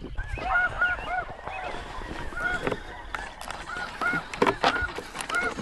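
Snow goose calls played through electronic callers: a steady chorus of many overlapping short, high honks repeating, with a few louder calls standing out.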